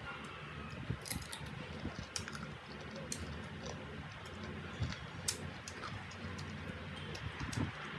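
Chewing crisp green mango: scattered crunchy clicks over a steady low hum.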